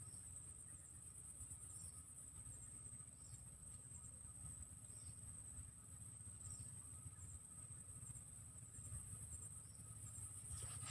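Insects droning in a steady, high-pitched, unbroken chorus, with faint short chirps every second or two and a low rumble underneath; a brief click near the end.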